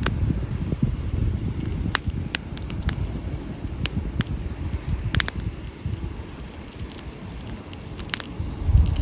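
Wood campfire burning, with sharp, irregular crackles and pops from the logs over a low, steady rumble.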